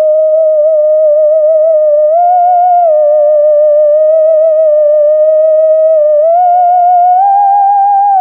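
u-he Zebralette software synthesizer playing a slow lead line: a smooth, nearly pure tone with a wavering vibrato. It holds one note, steps up about two seconds in, drops back a second later, then steps up twice near the end.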